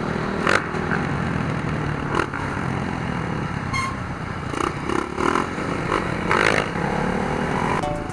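Dirt bike engines running, with a few short sharp clicks.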